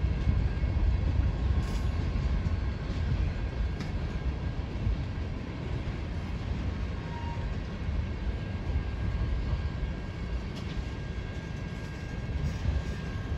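A train rolling by with a steady low rumble, a faint thin steady tone above it and a few light clicks.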